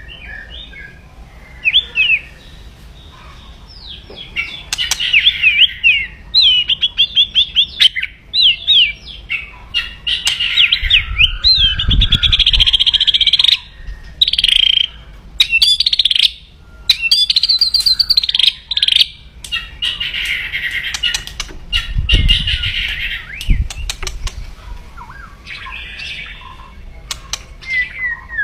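White-rumped shama (murai batu) giving its aggressive 'kretekan' song: loud, rapid runs of harsh rattling, chattering notes mixed with quick whistled trills. The song is sparse for the first few seconds, then almost continuous. Two dull low thumps sound, one near the middle and one later.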